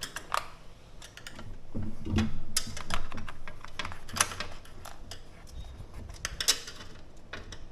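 Irregular clicks and taps of a small plastic part being worked by hand into an RV awning's arm hardware, refusing to seat, with a low rumble around two seconds in.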